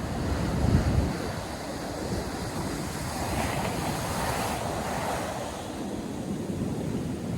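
North Sea surf breaking and washing on a sandy beach, a steady rush of water. A low gust of wind buffets the microphone about a second in, and a wave breaks and washes up more loudly around the middle.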